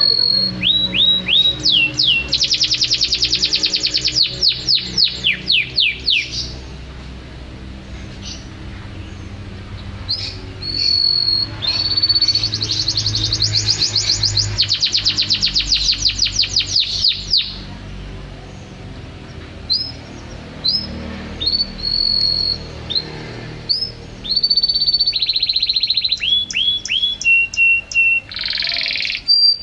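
Domestic canary singing: long rolling trills of fast repeated high notes, with short pauses between phrases.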